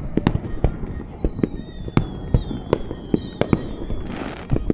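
Aerial fireworks display: irregular sharp bangs of shells bursting, several in quick succession. Thin high whistles glide slowly downward through the middle, and a short crackling hiss comes near the end.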